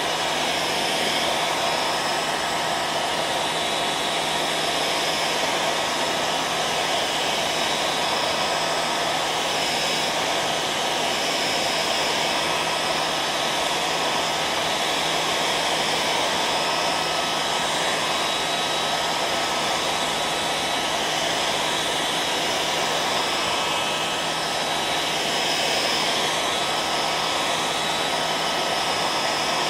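Electric hair dryer running steadily: an even rush of blown air with a steady low hum and a thin higher whine over it.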